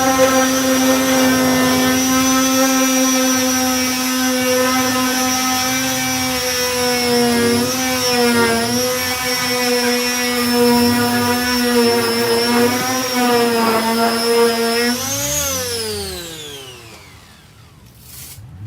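Power disc sander running with 240-grit discs, sanding body filler; its motor pitch dips briefly a couple of times, then it is switched off and winds down, the pitch falling away over about three seconds near the end.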